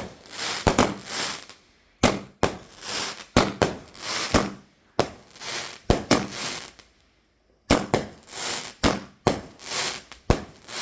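Multi-shot firework barrage firing a rapid series of sharp bangs, each followed by a short fading hiss, with a brief lull about seven seconds in.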